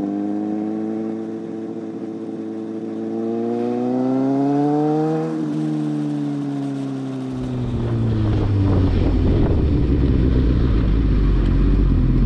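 Motorcycle engine rising in pitch as it accelerates, then falling as it slows. About halfway through, a loud, rough low rumble takes over and continues.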